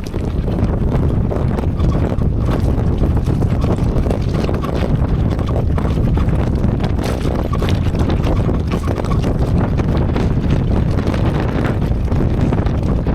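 Heavy wind buffeting the microphone while riding a bike down a bumpy hill track, with a steady stream of rattles and knocks from the bike jolting over the ground.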